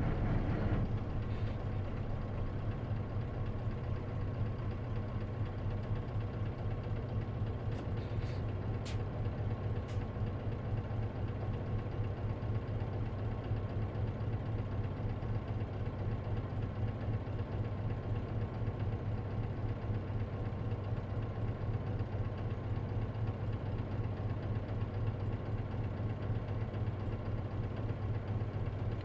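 Diesel engine of an Isuzu KC-LV380N manual-transmission city bus running steadily at idle, heard from inside the bus, with a low even drone. A few faint clicks come about eight to ten seconds in.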